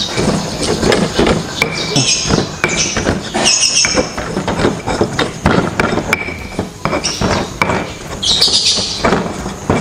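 Pestle knocking and scraping in a mortar, crushing egg whites and eggshells into a fine paste: a busy run of irregular knocks and grinding scrapes.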